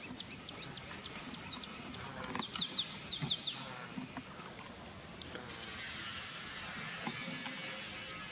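Small birds chirping in quick, high, falling notes through the first few seconds, over a steady, thin, high-pitched insect drone.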